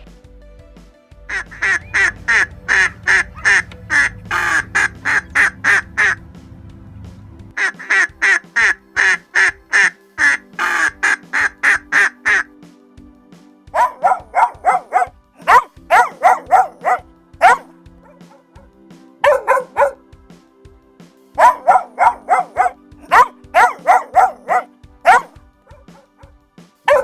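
An animal calling in rapid runs of short, sharp calls, about four a second, in several bursts of a few seconds each.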